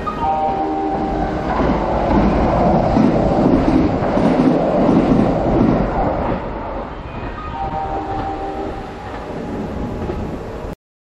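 Kintetsu electric train passing through the station, its running noise and wheels on the rails swelling to a peak a couple of seconds in and easing off after about six seconds. A stepped electronic chime sounds at the start and again from about seven to ten seconds in, and the sound cuts off abruptly just before the end.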